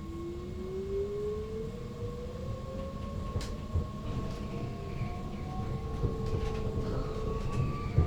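Electric multiple unit's traction motors whining over the low rumble of wheels on rail, the whine rising steadily in pitch as the train accelerates and levelling off near the end. A few sharp clicks from the rails break in.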